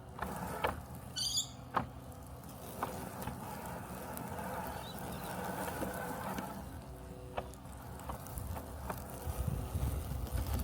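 Robotic lawn mower running with a steady low mechanical hum, its cutting noise swelling for a few seconds midway, with scattered short clicks and a brief high chirp about a second in.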